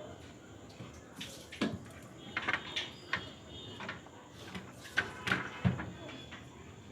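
Scattered light clicks, taps and scrapes of hands and a screwdriver working on a refrigerator's plastic thermostat panel and its screws.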